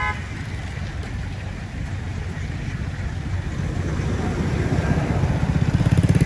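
A motor engine running steadily, growing louder with a pulsing beat near the end. A brief honk-like tone sounds right at the start.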